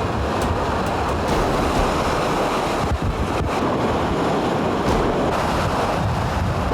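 Typhoon storm noise: a steady, loud rush of strong wind buffeting the microphone, with the sound of rough water in it.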